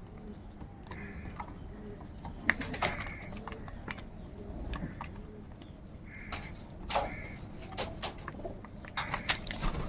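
Crows calling in short harsh calls, a few seconds apart, with sharp clicks among them and a low repeated cooing call underneath.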